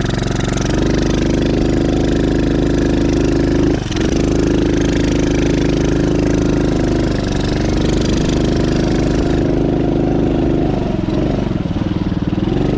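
Dirt bike engine running at a steady throttle, with a brief drop in the note about four seconds in, as at a gear change; the revs then ease off and pick up again near the end.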